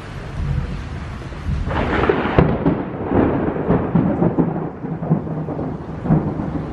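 Thunder: a low rumble, then a loud clap about two seconds in that breaks into crackling, rolling rumbles. Heavy rain falls throughout.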